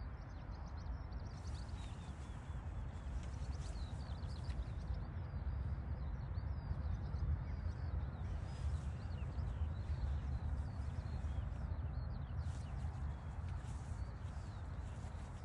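Small birds chirping and twittering over a steady low rumble, a little louder in the middle.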